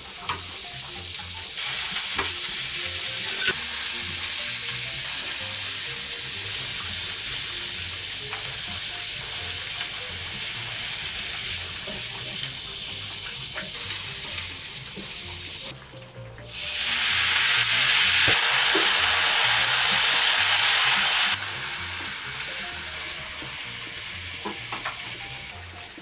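Garlic scapes and fish cake sizzling in an oiled nonstick wok as they are stir-fried with tongs and a silicone spatula, with occasional clicks of the utensils. The sizzle starts as the scapes go in. It breaks off briefly past the middle, then comes back much louder for about five seconds before settling to a lower fry.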